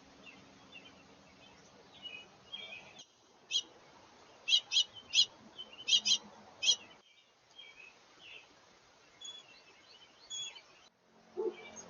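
Wild birds chirping and calling, with a run of about seven loud, sharp chirps between roughly three and a half and seven seconds in.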